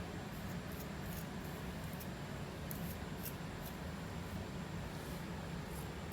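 Faint, irregular scratching strokes on a flaky scalp, a dry rasp of nail or comb working through the hair, over a steady low background hum.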